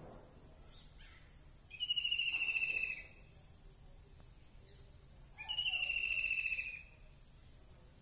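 A bird calling twice, each call a high, rapid trill lasting a little over a second: the first about two seconds in, the second about five and a half seconds in.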